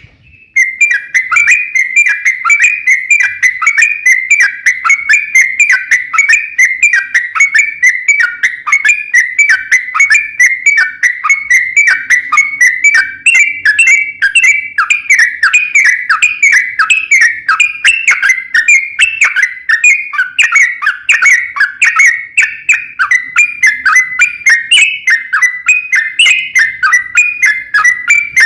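Crokcokan songbird singing continuously in full 'gacor' form: an unbroken run of short, whistled chirping notes repeated several times a second.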